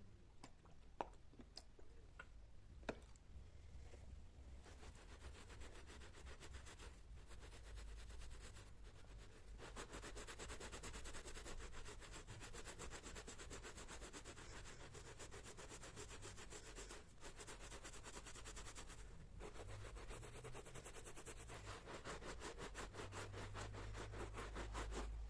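Faint rapid back-and-forth scrubbing of a surface in quick, even strokes. It starts about four seconds in, after a few light clicks.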